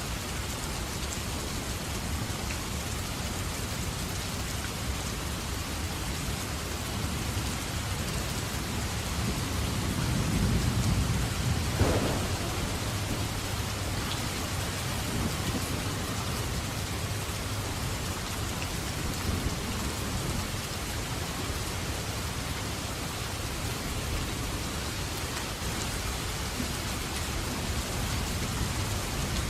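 Steady heavy rain falling, with a roll of thunder that builds from about nine seconds in and ends in a sharp crack near twelve seconds.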